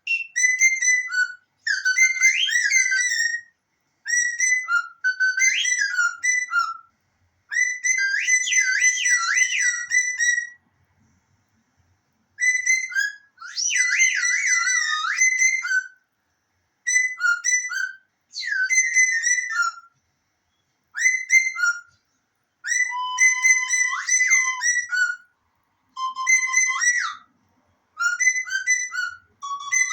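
High whistling in repeated short phrases of one to three seconds, with pitch that slides and warbles quickly, separated by brief pauses and one longer pause about a third of the way through.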